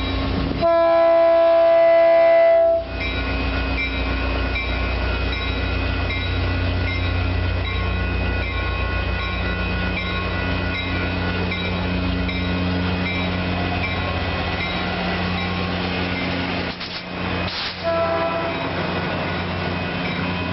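A Caltrain diesel locomotive sounds a loud horn blast of about two seconds, about a second in, then runs past with a steady engine rumble and rail noise. It gives a second, shorter horn blast near the end.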